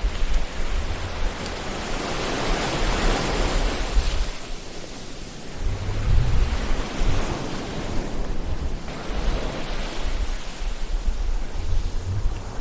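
Ocean surf: waves washing in and drawing back in slow swells, with a low rumble underneath.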